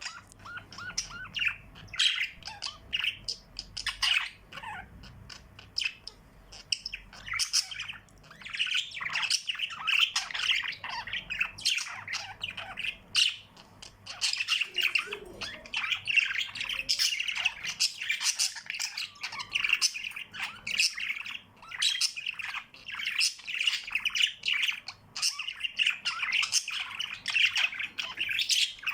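Pet birds chirping, many short calls overlapping almost without pause.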